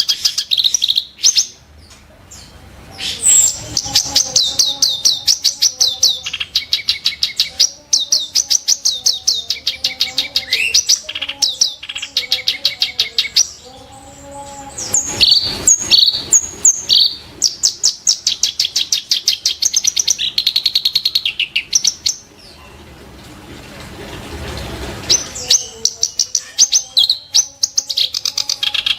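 Kerak basi (reed warbler) singing in rapid trains of sharp, harsh repeated notes, several strokes a second, broken by short pauses.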